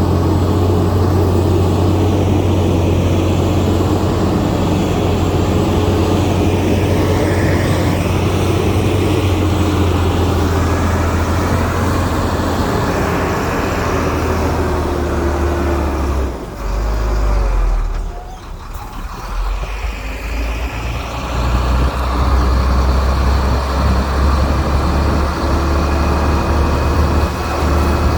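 Heavy diesel engine of earthmoving machinery running steadily. Just past halfway its note drops lower and quieter for a few seconds, then comes back up.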